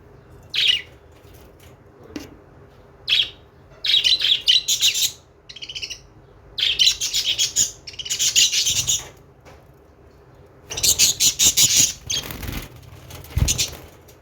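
Budgerigars chirping and chattering in irregular bursts of up to a couple of seconds, with short pauses between.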